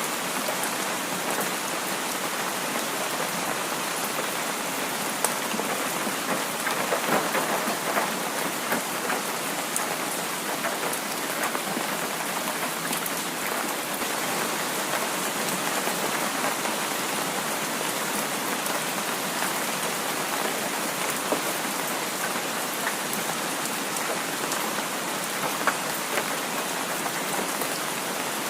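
Heavy rain falling steadily: an even hiss of rain with scattered drop ticks, swelling slightly about seven seconds in.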